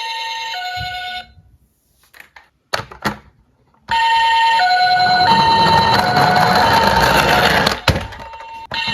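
Electronic hi-lo two-tone siren, its pitch switching back and forth about every half second. It cuts out a little over a second in, with a few clicks in the gap, and comes back about four seconds in with a rushing noise under it.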